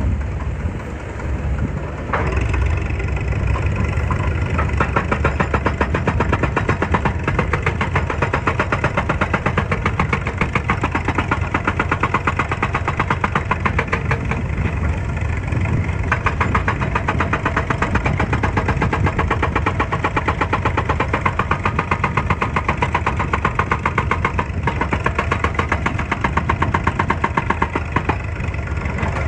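Excavator engine running steadily with a rapid, even pulsing that grows stronger about two seconds in.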